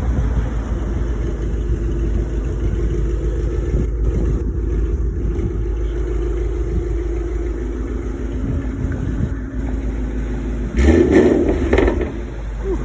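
Ford Mustang GT's 5.0-litre V8 through a Corsa Xtreme exhaust and Pypes high-flow catted headers, running with a steady low rumble. A brief louder burst comes about eleven seconds in.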